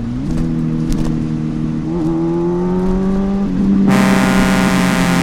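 A vehicle engine running steadily as it drives, its pitch briefly dipping and then a whine rising. About four seconds in, a horn starts blaring and is held.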